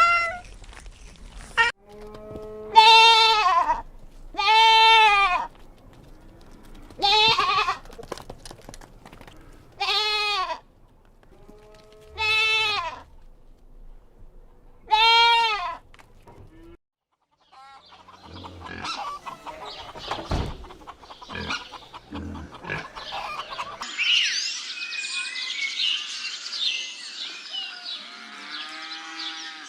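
A goat bleating six times, each call about a second long and wavering in pitch, with a few seconds between calls. After a short break, a busier stretch of scattered clicks and knocks, turning into a denser, higher chatter of overlapping calls near the end.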